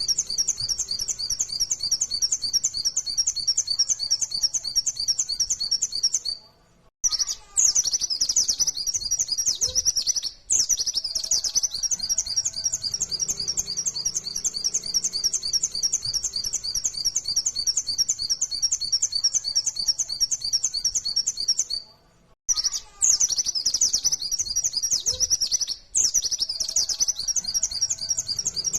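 Pleci (white-eye, Zosterops) singing a fast, unbroken run of high chirping notes in the rapid 'nembak' style, broken by two short pauses; the same song passage repeats after each pause.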